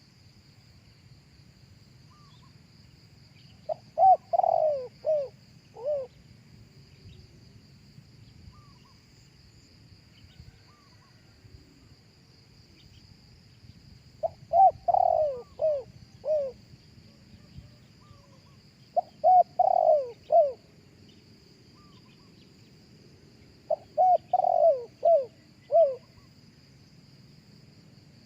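Spotted dove cooing: four phrases of four or five short notes each, separated by pauses of several seconds, over a steady faint high insect drone.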